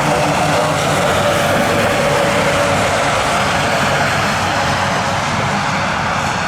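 Jet airliner engines running, a steady rushing noise with a faint whine in it, easing off slightly near the end.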